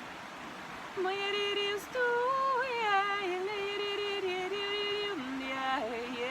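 A woman singing long, held notes that step and slide between pitches, starting about a second in. Beneath it is the steady rush of a fast-flowing river.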